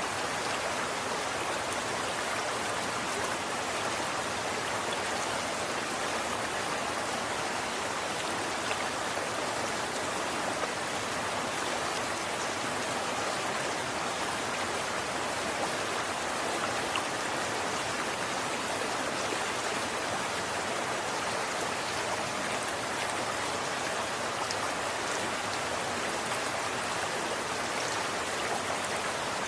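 Running water flowing steadily, an even rushing hiss with faint small splashes and no change in level.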